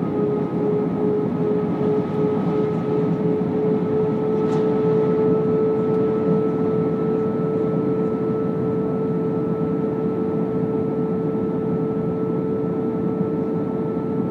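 Airbus A319 cabin noise in flight: a steady rush of engine and airflow noise with a constant engine whine.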